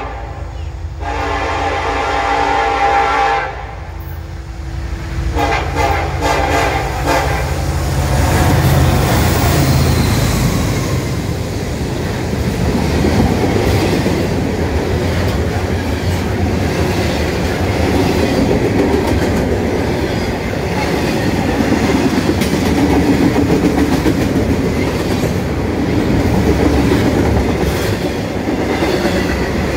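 A Norfolk Southern freight train's diesel locomotive horn sounds two long blasts in the first seven seconds over the rumble of the engines. The train then rolls past with a steady, loud noise of wheels on rail and clattering double-stack intermodal cars.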